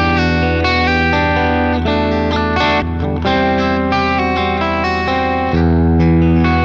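Charvel electric guitar with a Seymour Duncan humbucker, played through an amp: chords and ringing notes over a sustained low note, with a change of chord about five and a half seconds in.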